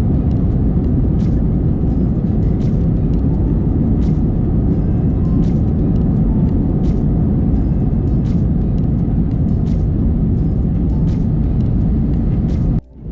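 Steady low roar of cabin noise aboard an Airbus A320 powered by IAE V2527E-A5 engines, engine and airflow noise with faint light ticks, cutting out briefly near the end.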